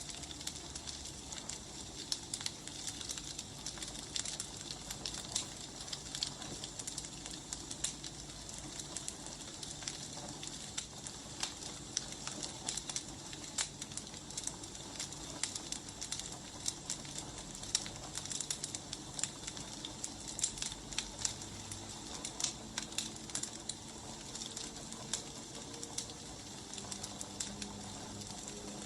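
Firewood burning, crackling with frequent irregular pops and snaps over a steady hiss.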